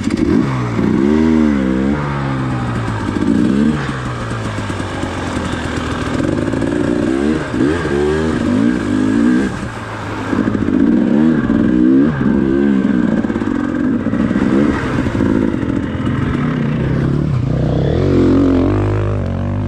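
Dirt bike engine being ridden on a trail, its revs rising and falling over and over as the throttle is worked.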